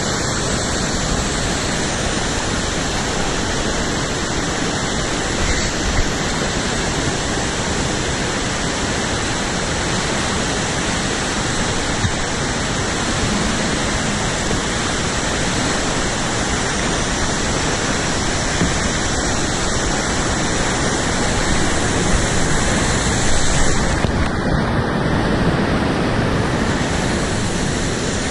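Steady rush of whitewater, the river running fast through rapids.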